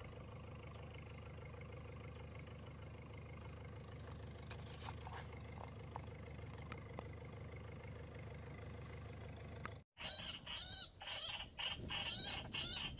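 Steady low rumble of outdoor background noise with a few faint clicks. Near the end a bird starts calling in a quick run of repeated arching notes.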